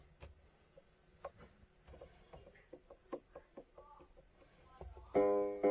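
Donner DEP-1 88-key digital piano: a few faint taps and soft, short notes, then about five seconds in a loud chord is struck and rings on.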